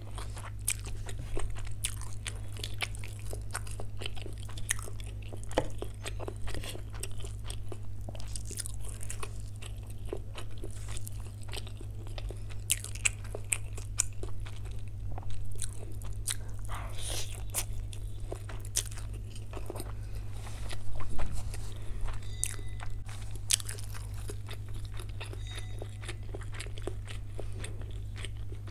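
Close-up eating sounds: chewing and crunching of chilli chicken and chowmein noodles, with many sharp mouth clicks. A louder stretch of chewing comes about three-quarters of the way through, and a steady low hum runs underneath.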